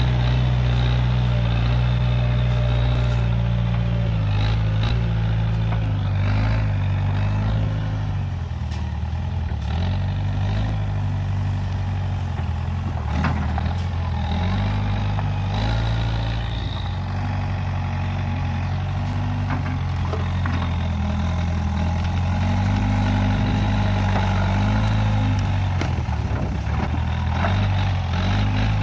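Case 580G backhoe loader's diesel engine running steadily under working load, its pitch rising and falling as the machine works, with occasional short knocks and cracks.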